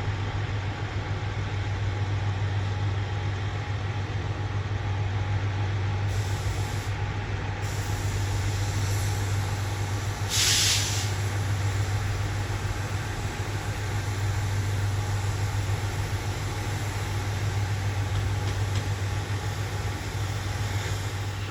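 Diesel railcar idling with a steady low hum. About halfway through, a short burst of compressed air hisses out of its brakes.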